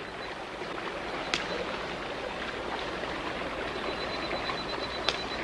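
Stream water running steadily, with two sharp clicks, one about a second in and one near the end.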